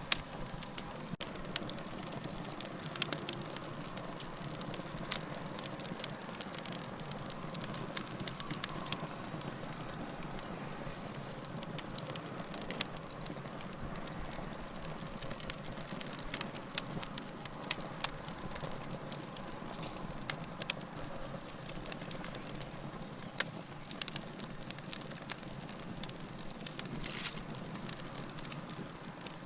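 Wood fire burning steadily, with a soft hiss under frequent irregular sharp crackles and pops.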